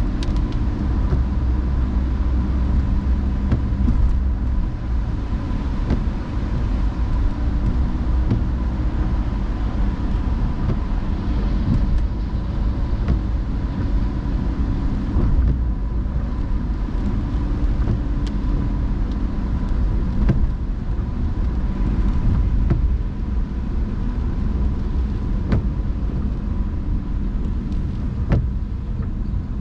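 A car driving in the rain: a steady low rumble of road and engine noise, with a faint steady high tone and a few scattered light ticks.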